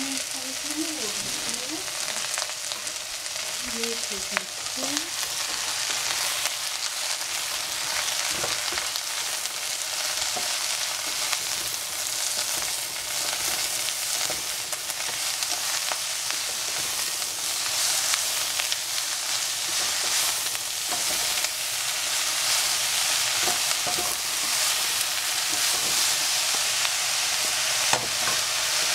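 Leftover iceberg lettuce and broccoli sizzling in hot oil in a pan, a steady hiss that grows a little louder, with occasional short knocks as it is stirred.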